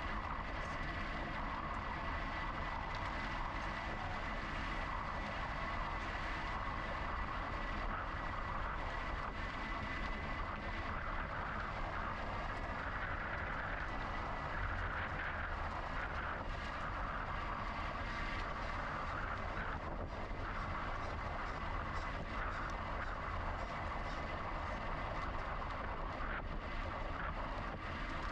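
Steady rumbling noise of an electric bike in motion: wind and road rumble at the camera. A faint steady high whine runs under it, plainest in the first several seconds.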